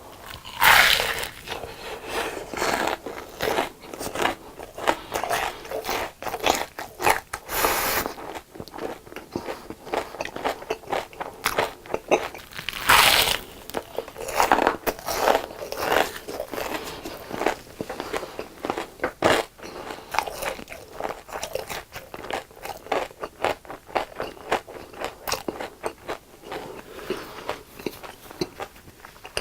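Close-miked mouth sounds of a person biting and chewing crunchy deep-fried food: a steady run of crisp crackling chews, with loud crunching bites about a second in and again about 13 seconds in.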